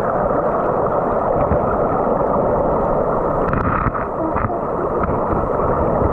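Creek water rushing in a steady, loud stream, with a few faint splashes about halfway through.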